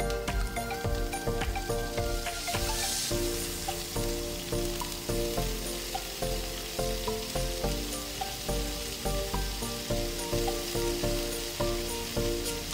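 Chopped spinach sizzling in hot oil in a frying pan as the leaves are added and spread, with a brief brighter hiss about two and a half seconds in. Soft background music with repeating notes plays throughout.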